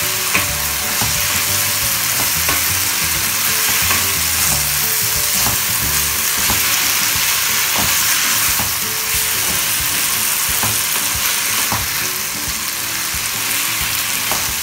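Okra, onions and masala gravy sizzling in a non-stick kadai as a wooden spatula stirs and scrapes through them, with scattered clicks of the spatula against the pan.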